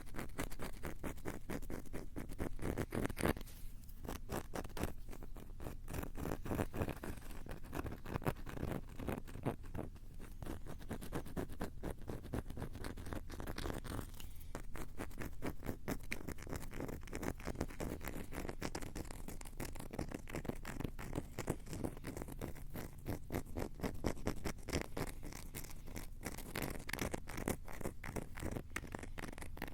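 Fingers scratching and tapping rapidly and continuously on a Tascam handheld recorder and its built-in microphones, a dense run of close, harsh scratches and clicks.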